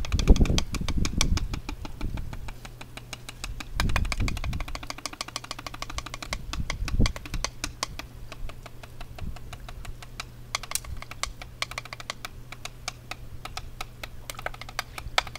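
Drumsticks playing rapid rudiments on a practice pad: a fast, even patter of stick strokes. Low rumbles come near the start and again about four seconds in, over a steady low hum.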